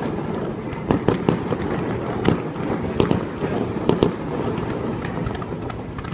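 Fireworks going off: an irregular string of sharp bangs, several a second at times, over a continuous rumble of distant explosions.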